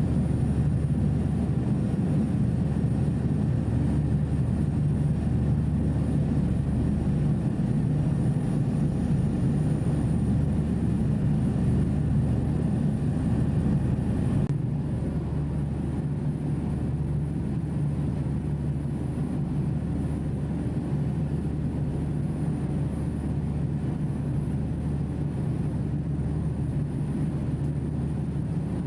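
Passenger ferry's engines droning steadily on board, a constant low hum that drops a little in level about halfway through.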